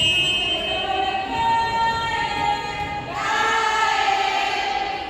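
A group of high voices singing together in two long held notes, the second starting about three seconds in.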